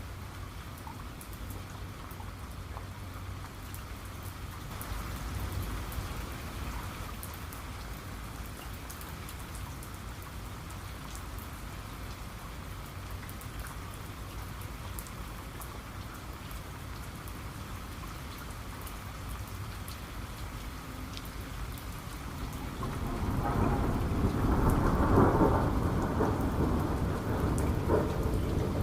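Steady rain with individual drops ticking, and a rumble of thunder building about three-quarters of the way in and staying loud to the end.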